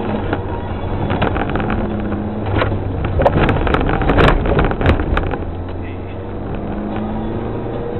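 Rally car engine running steadily, heard from inside the car. A burst of sharp knocks and rattles comes about three to five seconds in.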